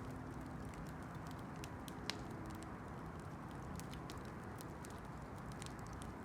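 Campfire burning: a steady low rush with scattered small crackles and pops, and one sharper pop about two seconds in.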